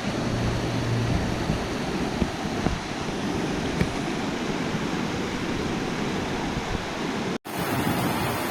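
Rushing river water: a steady, even hiss of flowing water. The sound cuts out for an instant about seven seconds in.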